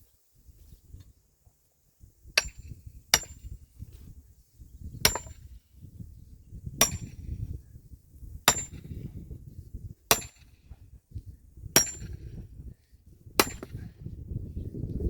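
Wood being split by hand: eight sharp, metallic-ringing strikes, about one every one and a half to two seconds.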